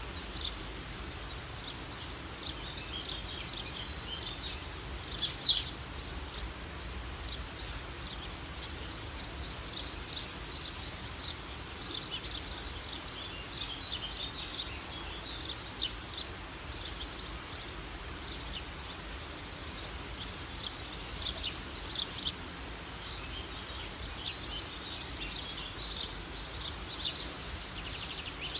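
Small birds chirping: a busy run of short, high chirps over a steady background hiss, with one louder call about five seconds in.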